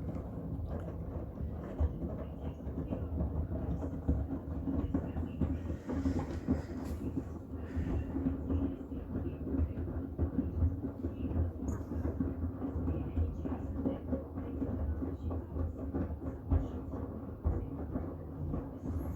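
Miele WCR 870 washing machine running a cotton wash with bath towels: a steady rumble of the turning drum and its load, with a faint motor hum underneath.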